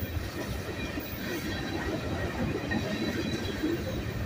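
Norfolk Southern freight train's tank cars rolling past at close range: a steady rumble and clatter of steel wheels on the rails.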